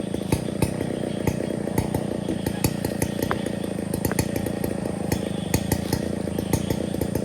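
Stihl 070 two-stroke chainsaw engine running at a steady speed, with scattered light clicks and clatter over it.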